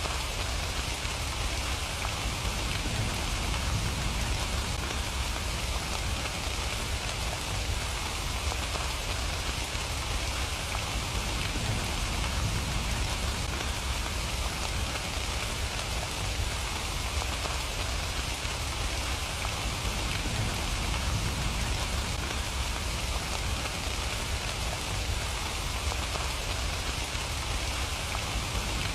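Steady rain falling and pattering on surfaces, an even hiss with a low rumble underneath.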